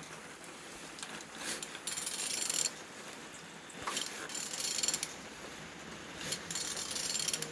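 Renault M9R 2.0 dCi diesel engine being turned over by hand with a wrench: three bursts of mechanical clicking and whirring about two seconds apart as the crankshaft is rotated. It turns freely, a sign that the engine is not seized.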